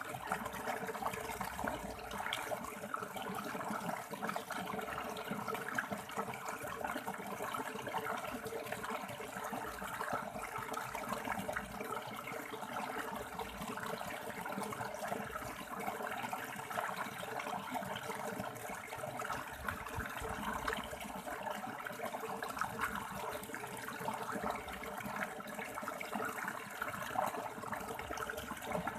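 River water running over stones, a steady rush with no letup.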